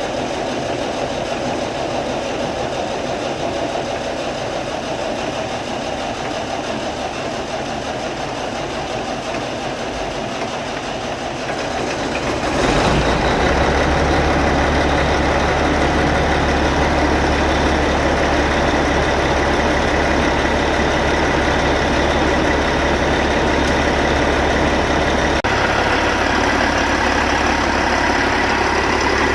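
Freshly rebuilt Caterpillar C-15 inline-six diesel engine running. About twelve seconds in, the sound grows louder and a steady low drone sets in, and the engine then idles steadily.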